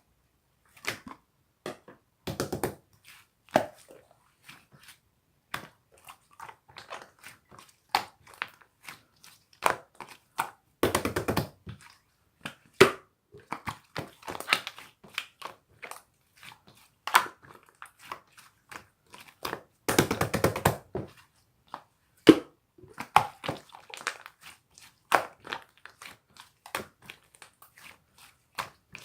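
Hands squishing and pressing slime, making irregular wet pops and clicks, with a few longer, denser bursts about a tenth, a third and two thirds of the way through.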